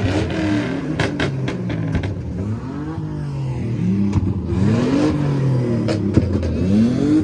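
Car engines revved hard again and again, each rev rising and falling in pitch about once a second, with sharp cracks in between.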